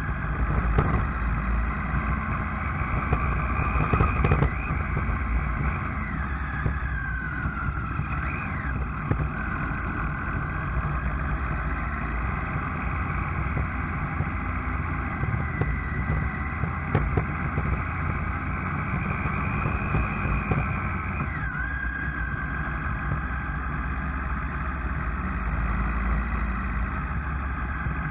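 A motor vehicle driving, with a steady low rumble and a whine that climbs slowly and drops suddenly three times.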